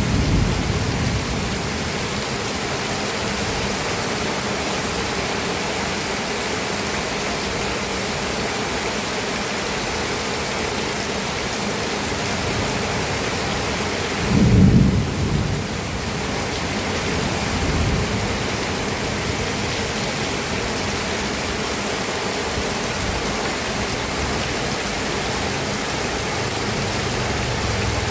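Steady heavy rain hissing, with low rolls of thunder: one at the very start, a louder rumble about halfway through and a weaker one a few seconds after it.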